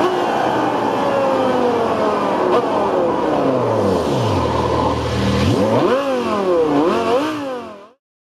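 A high-performance car engine whose note falls steadily for several seconds, settles briefly to a low steady note, then is revved sharply up and blipped twice more. The sound cuts off abruptly near the end.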